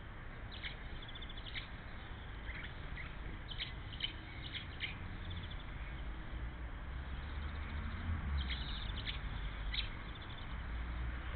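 Small birds chirping: short high chirps and quick trills at irregular intervals, over a steady low rumble.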